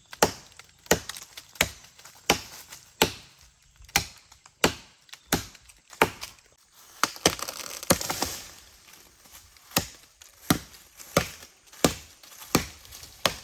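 Wood being struck repeatedly with a tool, sharp blows at an even pace of about one every 0.7 s, with a short pause and a patch of rustling noise about two-thirds through.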